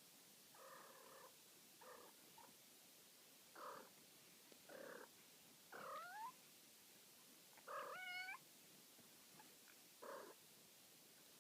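Ragdoll kittens, almost six weeks old, mewing: a string of about eight short, faint mews, two of them longer with a bending pitch past the middle.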